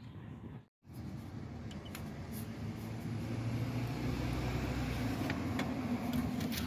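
A steady low mechanical hum that grows louder about three seconds in, with a few faint clicks. The sound drops out briefly about a second in.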